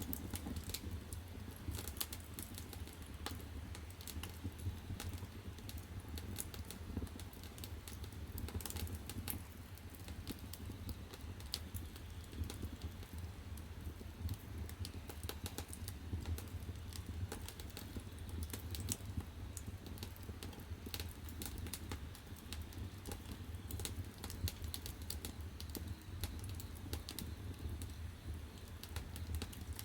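Firewood burning in the firebox of a wood-fired bath heater, crackling with dense, irregular pops and snaps over a low, steady rumble.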